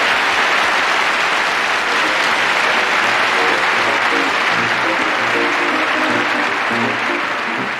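Audience applauding after an introduction, with the jazz quintet's first notes coming in under the clapping about three seconds in; the applause thins as the playing takes over.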